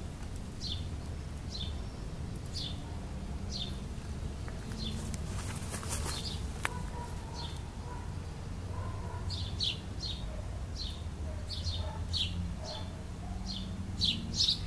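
A bird calling outdoors with short, high, falling chirps repeated about once a second, coming faster in the second half and loudest near the end, over a low steady rumble.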